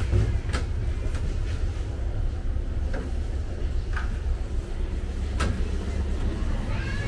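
Third-class passenger train running on the rails: a steady low rumble with about five sharp, irregularly spaced clacks.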